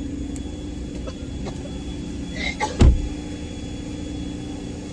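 Steady hum inside a car with its engine running, with a few light clicks and one loud thump a little over halfway through.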